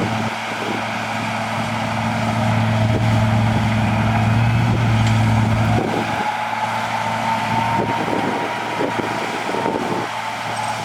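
Diesel engine of heavy earthmoving machinery working: a steady low hum that grows louder and then drops off about halfway through, with a whine rising in pitch and scattered clanks and knocks.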